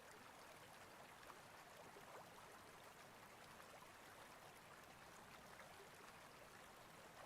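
Near silence: a faint, steady hiss of background or room tone, with a few tiny ticks.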